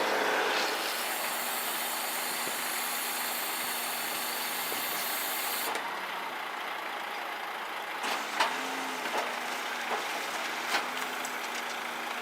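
Truck's compressed air hissing steadily and cutting off sharply about halfway through, followed by a few separate sharp knocks over a low steady hum.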